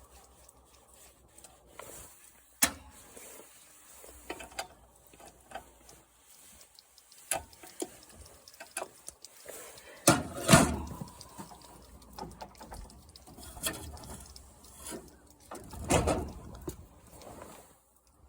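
Irregular metallic clicks, clanks and knocks of tools and parts being handled while a lawn mower engine is taken apart. The loudest knocks come about ten seconds in and again near the end.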